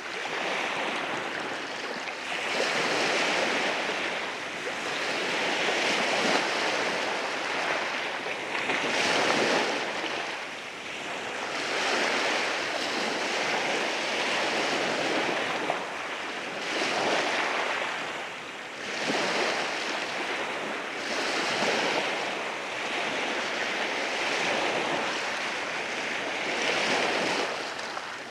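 Waves breaking and washing over rocks on a beach, a continuous surf noise that swells and eases every couple of seconds.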